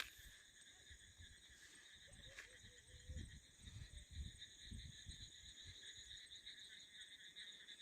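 Faint, steady chorus of crickets chirping at several pitches at once, with occasional soft low thuds.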